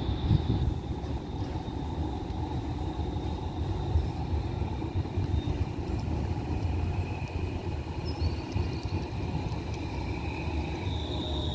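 Tram running, with a steady low rumble and a thin high-pitched whine held throughout.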